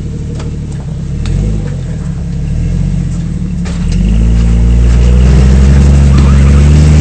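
Off-road 4x4's engine revving up hard about four seconds in and holding at high revs, as on a rock climb. A few sharp knocks come before the rev-up.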